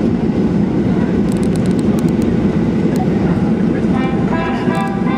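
Boeing 737-800 cabin noise: a steady low rumble with light rattles and clicks as the airliner rolls on the ground after landing. Music fades in near the end.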